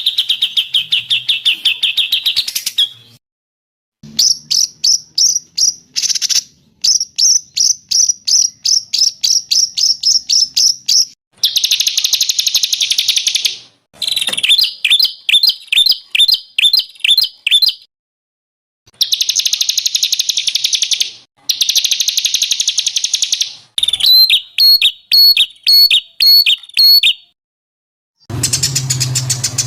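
Songbird song in a masteran compilation of recordings: about nine separate phrases, each a fast trill or rapid run of repeated high notes, cut apart by short silences. A low hum comes in under the last phrase.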